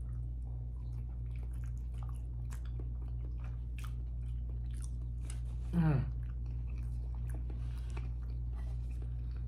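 A person chewing raw salmon sashimi: many small wet mouth clicks and smacks, with a short falling "mm" about six seconds in, over a steady low hum.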